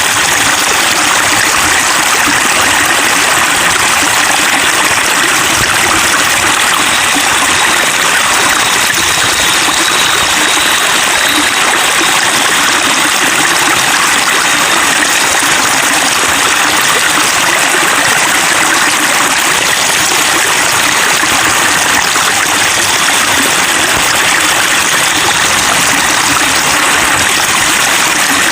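Flowing water babbling steadily, an even, unbroken rush.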